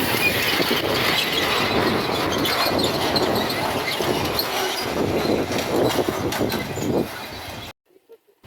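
Miniature railway train running on the track, wheels clattering and squealing on the rails. The sound cuts out abruptly near the end.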